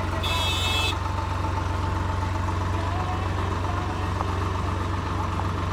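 A motor vehicle engine idling steadily, a low even hum, with faint voices in the background and a brief high-pitched tone just after the start.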